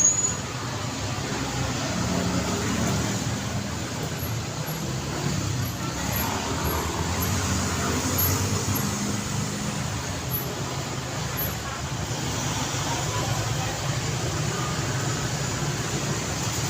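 Steady road traffic: cars and motorbikes passing, with engine hum rising and falling, a sharp knock at the very start and faint voices in the background.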